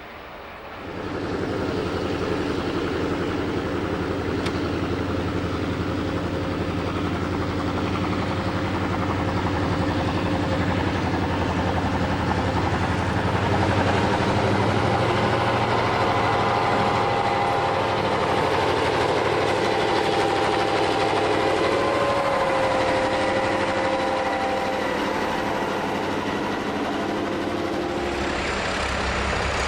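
Diesel locomotive engine running steadily and loudly, with a low, even engine note. It comes in about a second in, and a higher whine joins through the middle.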